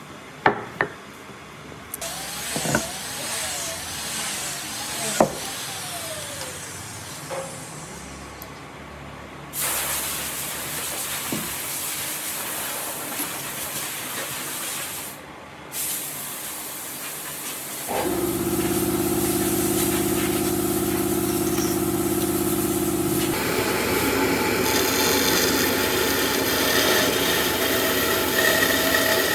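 Workshop sounds: scattered knocks and clicks, then a steady hiss, and about two-thirds of the way in an electric motor starts and runs with a steady hum.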